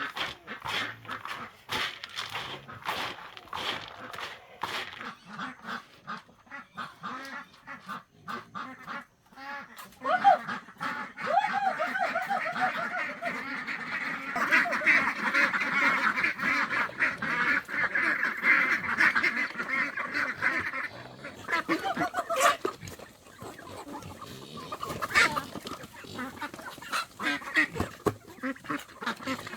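A flock of farm waterfowl calling: scattered short calls at first, then a loud, dense chorus of calls from about ten seconds in, thinning out again after about twenty seconds.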